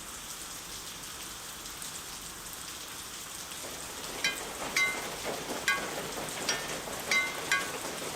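Steady rain hiss; from about four seconds in, individual drops start plinking with a short ringing tone, roughly one or two a second.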